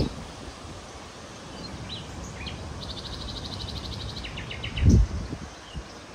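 Small birds chirping, with a fast trill of rapidly repeated notes about three seconds in, over steady outdoor background noise. A short low thump about five seconds in is the loudest sound.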